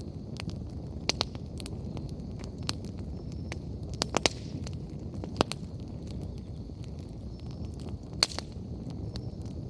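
Wood bonfire crackling over a steady low rumble of flame. There are sharp pops: a pair about a second in, a quick cluster around four seconds, one more soon after and another near the end. A faint high whistle comes and goes.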